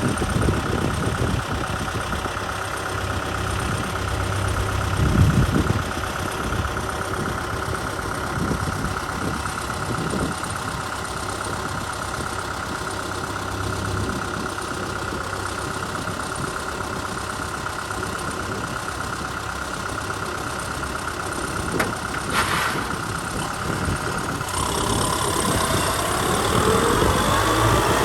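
Kubota M6040 SU tractor's four-cylinder diesel engine running steadily, its note shifting and wavering over the last few seconds.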